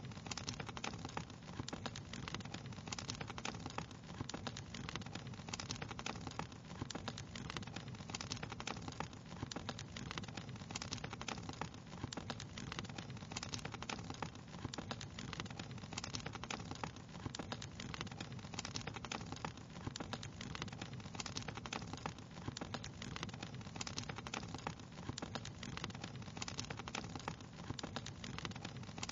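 Wood fire crackling steadily: a dense run of small pops and snaps over a low, even rumble of burning.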